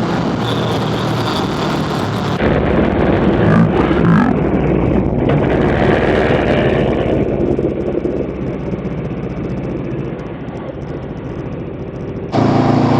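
Honda scooter engine running while riding, mixed with heavy wind rush on the microphone. The sound changes abruptly about two seconds in, growing louder and rougher, and shifts back just before the end.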